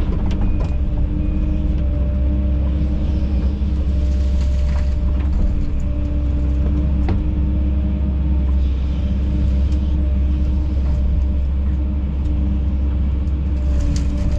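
Kobelco SK210 excavator's diesel engine running at a steady speed with a constant low hum, heard from inside the cab, with a few light knocks.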